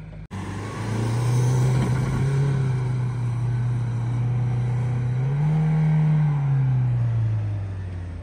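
Mahindra Thar 4x4 engine pulling hard under load as the vehicle climbs a steep sand dune. It holds a steady drone, rises in pitch about five seconds in, then falls away near the end.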